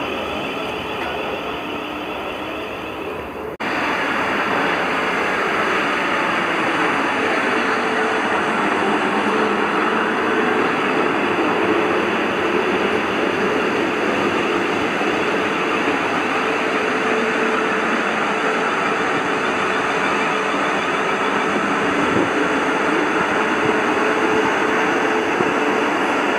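Steady running noise of a train on the track. The sound breaks off abruptly about three and a half seconds in and picks up again slightly louder.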